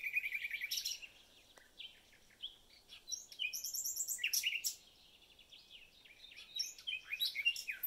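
Small birds chirping and trilling in three short bursts of quick, high-pitched notes, with quiet pauses between.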